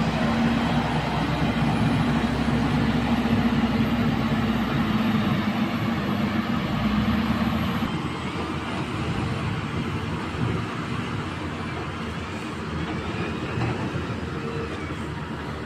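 Heavy mining machinery running steadily: a continuous rumble with a low steady hum that drops out about halfway through, leaving a slightly quieter rumble.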